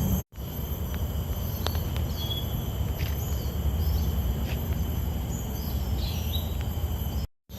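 Outdoor ambience: steady high-pitched insect calls with a few short bird chirps, over a low rumble. The sound cuts out for an instant twice.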